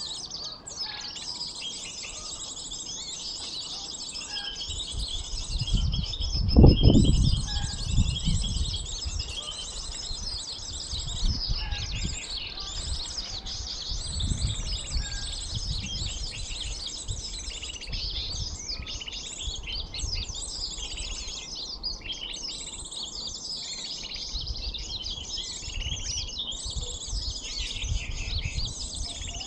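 Small birds chirping in a dense, continuous high-pitched chatter, a call used to lure small birds for trapping. A low rumble rises about six seconds in and is briefly the loudest sound.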